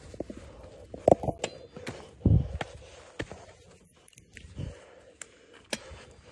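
Footsteps scuffing and crunching on a steep dirt trail, mixed with clicks and knocks from a handheld phone camera being jostled during the climb. A few louder thumps come about a second in and just after two seconds.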